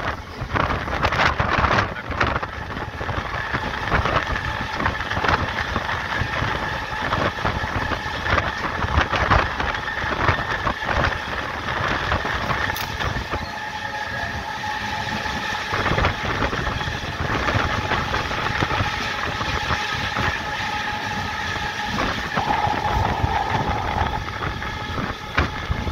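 MEMU electric train running along the track, a steady rumble of wheels on rail broken by irregular clacks. A steady whine of several tones comes in about halfway through.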